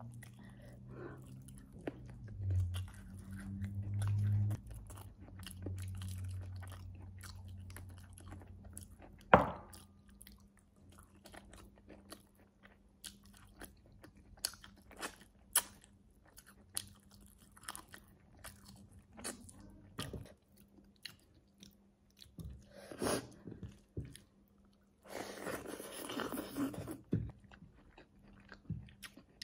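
Close-up chewing and biting of goat rib meat eaten by hand, with a steady run of small clicks and crunches. One sharp, loud crack comes about nine seconds in, and a longer stretch of denser chewing noise comes near the end.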